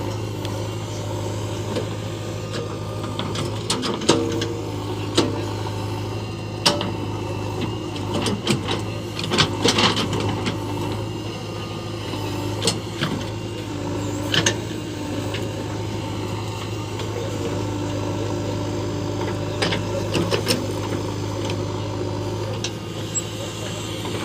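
JCB 3DX backhoe loader's diesel engine running steadily under work, with irregular sharp knocks and clanks scattered through it, a cluster of them about ten seconds in.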